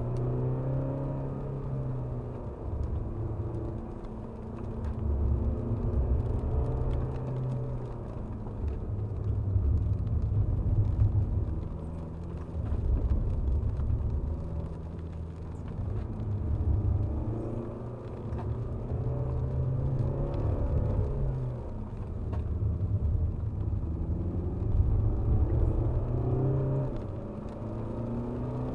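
Alfa Romeo Giulia Veloce Q4's 2.2-litre four-cylinder turbodiesel heard from inside the cabin, pulling hard up through the revs and easing off again several times as the car laps a wet track, over a low rumble of tyres and road.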